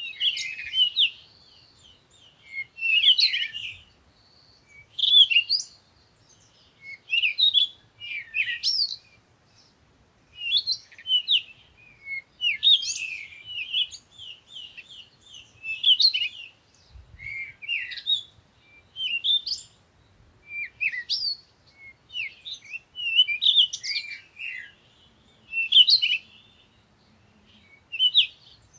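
Small songbirds chirping and singing in short, high twittering phrases every second or two, with brief pauses between them.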